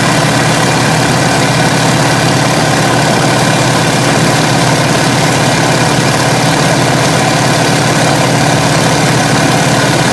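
Biplane's engine running steadily, a loud continuous hum of several steady tones under an even rushing hiss.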